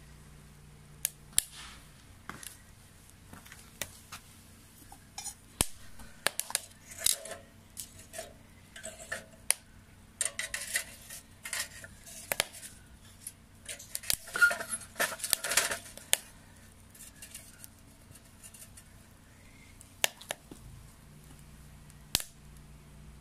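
Wet firewood crackling and popping in a homemade secondary-combustion stove: scattered sharp pops, coming thick and fast in the middle, then thinning out again.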